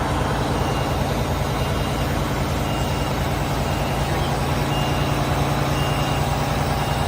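Diesel truck engine idling steadily, with a short high beep repeating about once a second.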